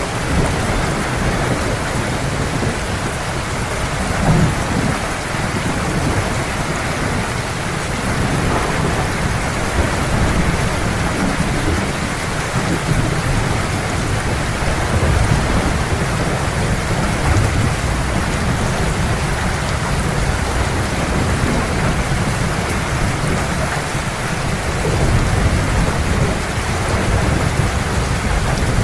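Heavy rain falling steadily in a thunderstorm, with low thunder rumbling beneath it that swells a few times.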